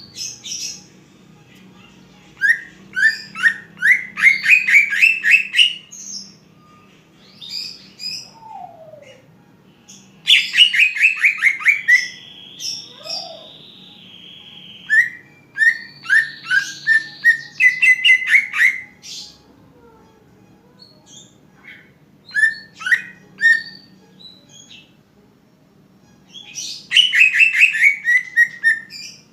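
Cucak ijo (greater green leafbird) singing loudly in bursts of rapid repeated whistled notes. There are four main phrases with pauses between them, and a buzzy note about halfway through.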